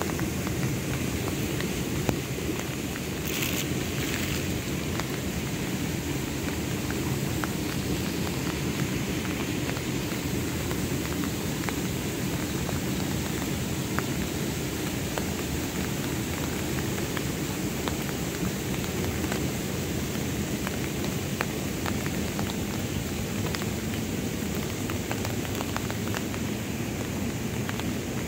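Heavy rain falling: a steady hiss with many small drop ticks.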